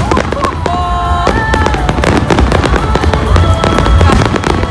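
Fireworks going off in a dense run of sharp bangs and crackles.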